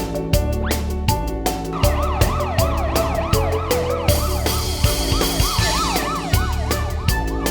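Cartoon emergency-vehicle siren wailing in quick rising-and-falling sweeps, about three a second, starting about two seconds in and stopping near the end, over background music with a steady beat. A hiss joins for a couple of seconds midway.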